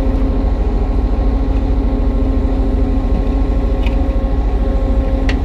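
Kubota U35-3 mini excavator's diesel engine running steadily, with a couple of sharp clicks near the end.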